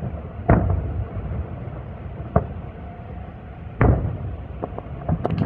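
Aerial fireworks shells bursting: a heavy boom about half a second in, a sharper crack midway, another heavy boom near four seconds, then a few smaller pops near the end.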